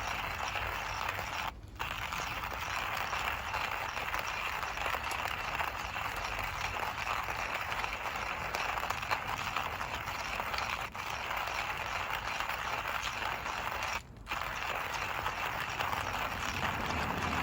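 Coffee beans being ground in a hand coffee mill: a steady grinding crunch, broken by two brief pauses, one about a second and a half in and one near the end.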